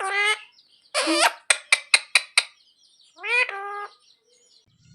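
Indian ringneck parrot calling: a call about a second in, then a quick run of about five short sharp chirps, and a short rising call a little past three seconds.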